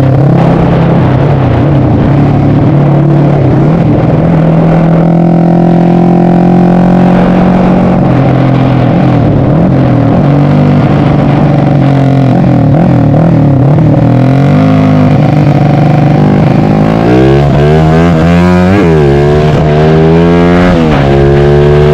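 Yamaha MX King motorcycle's single-cylinder engine, bored out to 300cc, running under way: it holds a steady pitch for most of the time, then in the last few seconds revs up and falls back several times as it accelerates.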